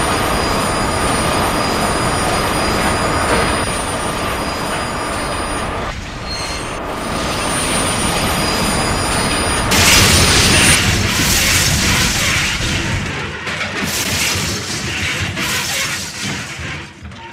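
ICE high-speed train running on the rails with a steady wheel squeal. About ten seconds in comes a sudden loud crash of the derailment, a long ragged run of grinding and impacts that dies away near the end.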